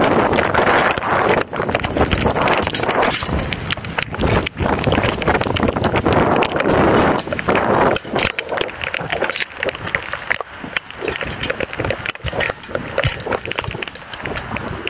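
Strong wind gusting across the microphone, strongest near the start and again about halfway through, with many sharp knocks and clicks throughout.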